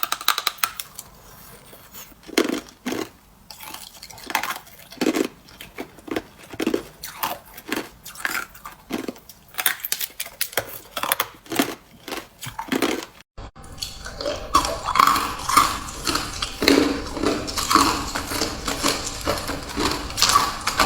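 Ice being bitten and chewed close up: a string of crisp, irregular crunches. There is a brief break about 13 seconds in, after which the crunching comes thicker over a louder background hiss.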